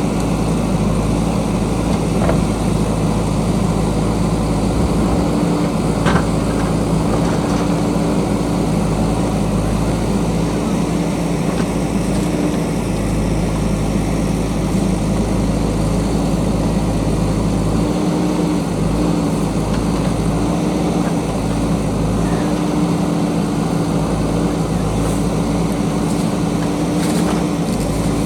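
JCB backhoe loader's diesel engine running steadily while it digs, its pitch dipping and rising now and then in the second half as the hydraulics take load.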